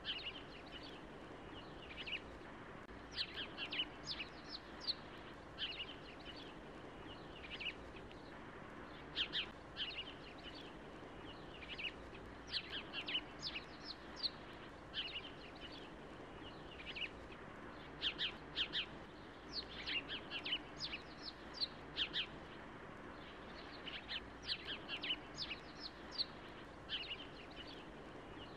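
Small birds chirping: clusters of short, high-pitched chirps every second or two, over a faint steady low background noise.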